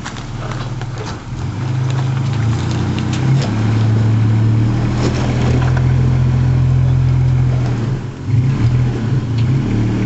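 Nissan Frontier pickup's engine pulling under load as the truck crawls over rocks. The drone steps up and holds for several seconds, then rises and falls unevenly near the end, with scattered clicks and knocks of rock under the tyres.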